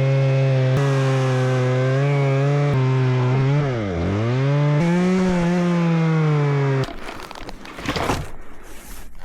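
Chainsaw running at high revs with a steady pitch that sags briefly about four seconds in and then recovers. It stops abruptly near seven seconds, and rougher irregular noise follows.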